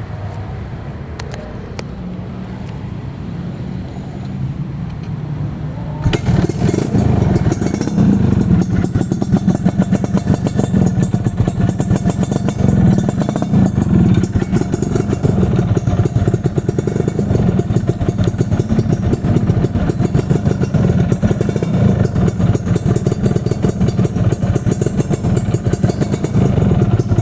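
Motorcycle engine running through an aftermarket racing exhaust. It runs lower at first, then is revved up about six seconds in and held at high revs with repeated throttle blips.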